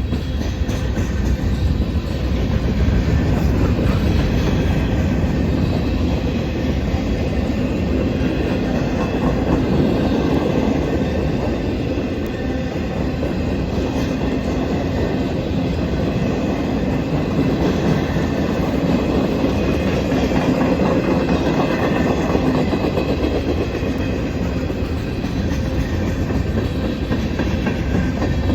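Norfolk Southern manifest freight train rolling steadily past at close range, its wheels rumbling over the rails as it diverges onto the siding.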